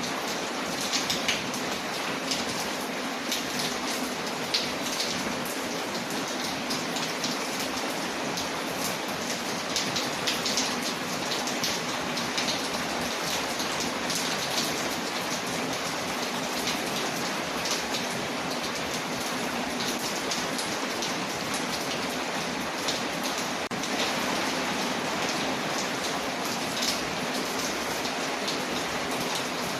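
Steady rain pattering on a window, mixed with the small sharp pops and crackles of a wood fire burning in a fireplace.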